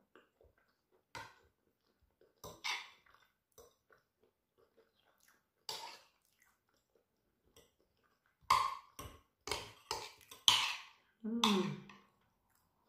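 Close-up eating sounds from a person chewing with mouth noises in short separate bursts, coming thicker and louder in the last few seconds. Near the end comes a short low hum that falls in pitch.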